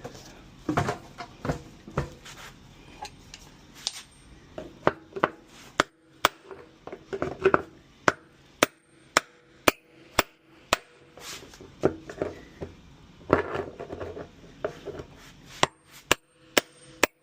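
Hammer blows on the drum bearing of an LG washing machine, a long run of sharp strikes about two a second, some of them ringing briefly like struck metal.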